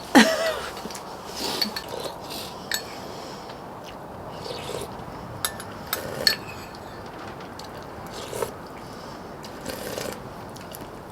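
A spoon clinking and scraping against a rice bowl now and then while hot sungnyung is eaten from it.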